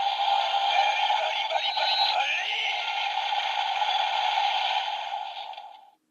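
Electronic sound effects and music played from a Kamen Rider DX transformation toy's small built-in speaker, thin with no bass, dying away near the end.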